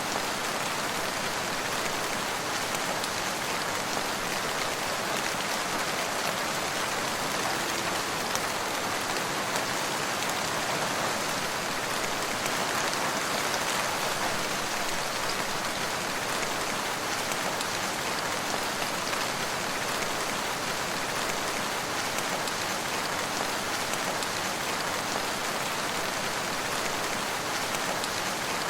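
Steady rain falling, a dense even patter of drops on surfaces with no breaks or thunder.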